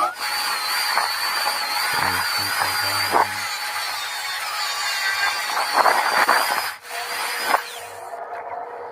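A power tool running with a high wavering whine that cuts off about seven seconds in, over background music with a steady beat.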